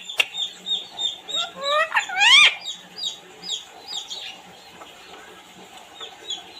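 Parrot chirping: a steady run of short high chirps, with a few louder rising squawks about two seconds in.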